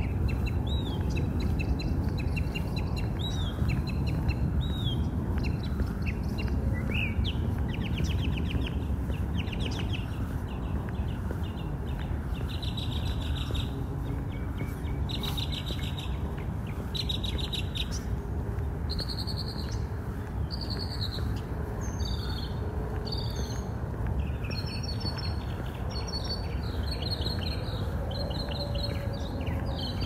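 Several birds calling and singing: repeated short arching chirps at first, then rapid trills from about seven seconds in, and high chirps through the second half. Under them runs a steady low background noise.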